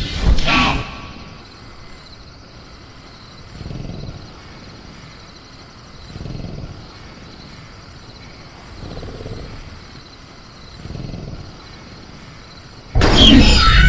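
Sound-designed velociraptor vocalizations over a steady high cricket chorus. A loud call comes at the start, then soft low breaths come every two to three seconds. Near the end there is a loud screech that glides downward over a heavy low rumble.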